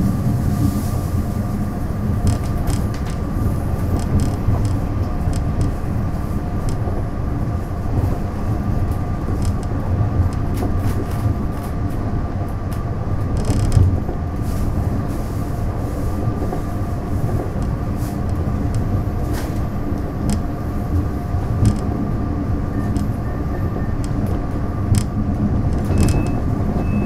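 Taiwan Railways DR3000 diesel multiple unit running along the line: a steady low rumble of engine and wheels with a faint steady whine on top, and scattered clicks from the track.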